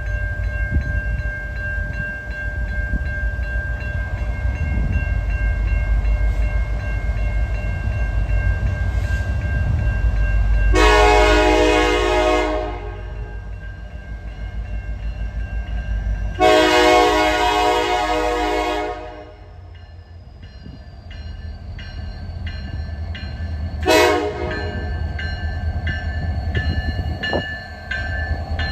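Diesel locomotive leading a freight train, its engine rumbling as it comes on and its horn sounding two long blasts and then a short one. After that comes a steady run of clicks from wheels passing over rail joints as the train rolls by.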